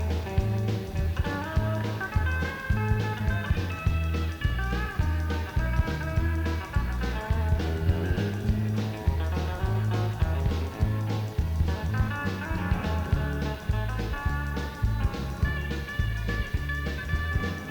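Live country band playing an instrumental break: drums and bass guitar keep a steady beat under electric guitar and pedal steel guitar lines, with no singing.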